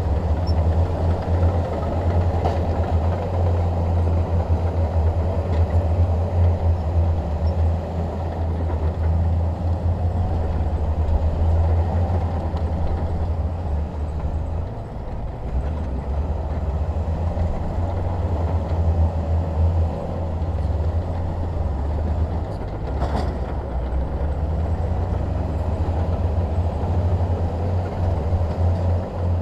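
Bulldozer's diesel engine running steadily under load with a low, even drone, while pushing soil and stone. A single sharp clank stands out late on.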